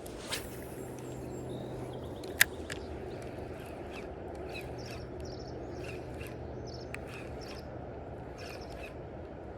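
Steady rush of river water, with a bird calling in short chirps repeated about twice a second, and a single sharp click about two and a half seconds in.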